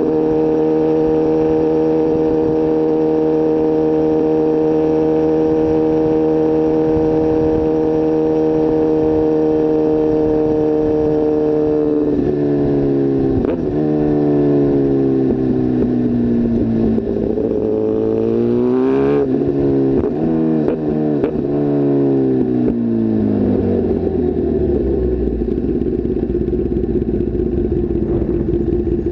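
Sport motorcycle engine heard from on board, holding a steady note at cruising speed, then dropping in pitch as the bike slows, with a brief quick rev about two-thirds of the way through. Near the end it settles to a low idle as the bike stops.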